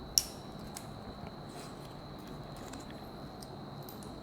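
A single sharp click just after the start, followed by a few faint ticks, from small smartwatch parts being handled and set down. A faint steady high-pitched tone runs underneath.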